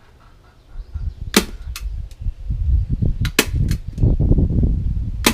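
A staple gun firing staples to fasten small squares of wire screen over the air holes in a wooden hive top: a series of sharp snaps, several in quick succession, over low rustling and handling noise.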